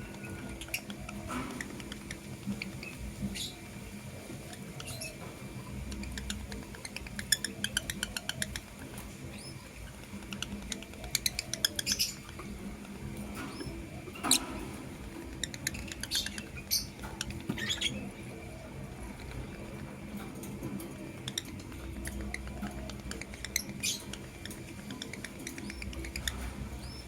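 Lovebirds chattering and chirping: bursts of rapid, high-pitched ticking chatter about a third of the way in, and sharp short chirps scattered through the rest, over a faint steady hum.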